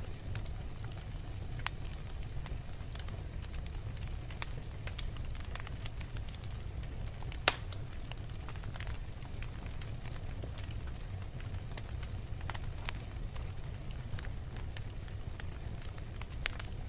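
Wood fire burning in a fireplace, logs crackling with scattered sharp pops over a steady low rumble of the flames; one loud pop about halfway through.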